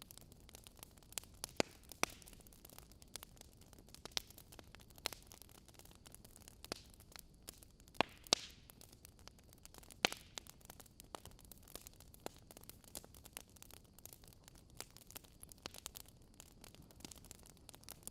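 Wood fire crackling in a fireplace: irregular sharp pops and snaps over a faint steady hiss, with a short hissing flare about eight seconds in.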